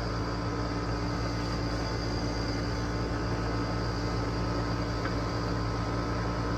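Steady hum of running air-conditioning machinery, several constant low tones over an even whir, unchanging throughout.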